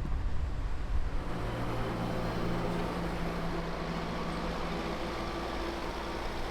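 A steady engine or machinery drone with a low hum; about a second in, its low tones settle into an even pitch.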